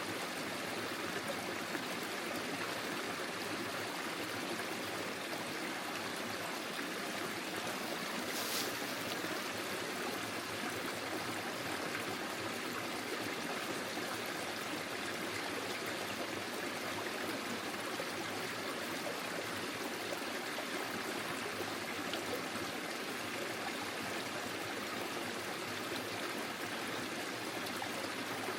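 Forest stream flowing steadily, an even rush of running water, with one brief high click about eight seconds in.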